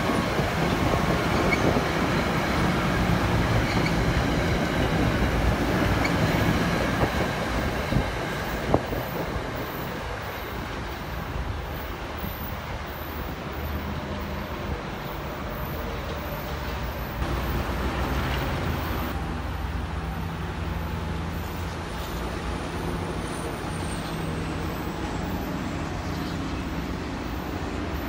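Budd M2 electric multiple-unit train running close by, its wheels and motors making a loud rumble on the rails with a sharp click about nine seconds in. After that a quieter, steady rumble with a low hum follows as a train sits farther off.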